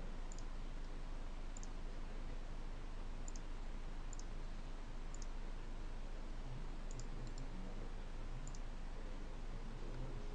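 Faint computer mouse clicks, about eight, some in quick pairs, over a steady background hiss.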